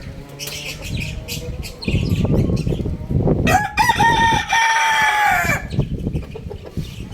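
Young rooster crowing once: a single crow about two seconds long that rises at the start, holds, then falls off at the end.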